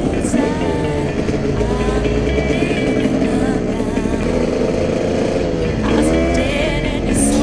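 Dirt bike engine running, its pitch sliding down and up as the throttle changes, with a quick climb in revs about six seconds in.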